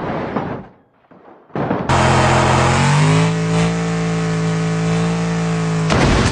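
A motor vehicle's engine revving hard, climbing in pitch and then held steady at high revs for a few seconds, after a couple of short noisy bursts.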